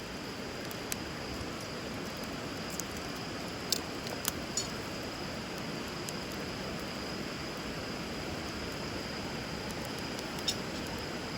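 Wood fire burning with a few scattered sharp crackles and pops over a steady rush of river water.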